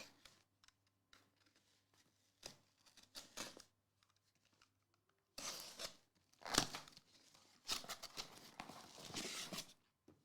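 Packaging on a sealed case of trading cards being torn open: several short tearing and crinkling rips, then a longer tear near the end.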